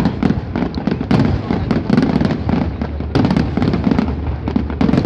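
Aerial fireworks display: a rapid, unbroken string of shell bursts and crackles, many sharp bangs a second over a continuous low rumble.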